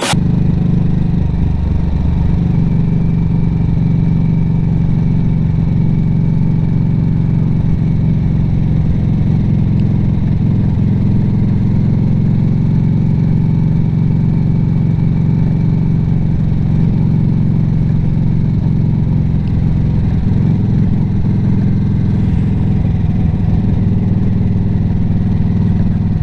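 Harley-Davidson motorcycle engine running steadily while riding, with an even low drone and little change in pitch throughout, shifting slightly about twenty seconds in.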